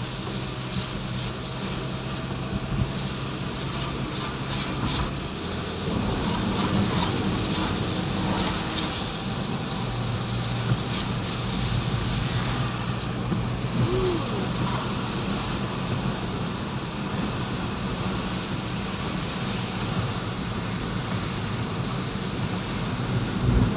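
Vehicle on the move: a steady low engine hum under road and wind noise.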